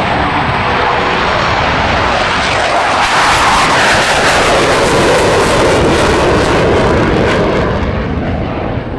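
F/A-18 Hornet jet flying past, super loud, on afterburner. The jet's noise swells, its pitch slides downward as it passes, and it eases off near the end.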